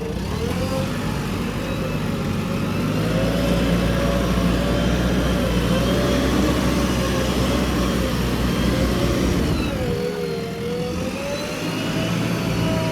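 Diesel engine of a JCB 3DX backhoe loader running under load while it works, its pitch wavering up and down. The engine speed sags about ten seconds in, then climbs back.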